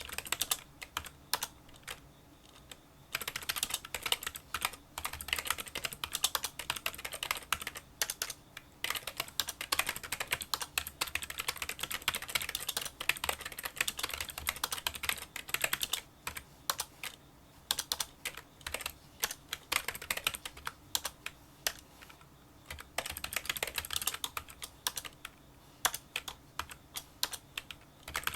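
Fast touch-typing on a Kinesis Freestyle Solo split keyboard with membrane key switches: a dense run of small, quiet clicking keystrokes. The run thins to scattered single keystrokes near the start and in two short pauses later on.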